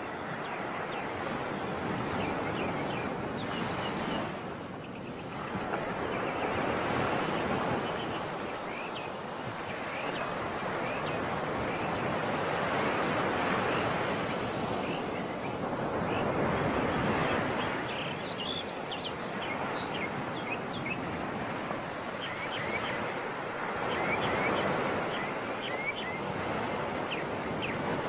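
Sea surf washing in, the noise swelling and easing every few seconds, with birds chirping high over it.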